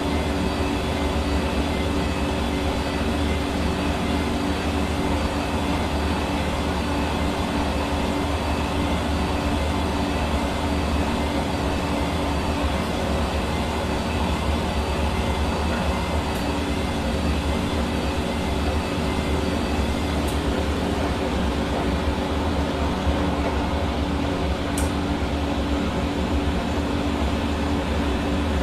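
Hair dryer running continuously at a steady speed: an even rush of blown air over the hum and whine of its motor and fan.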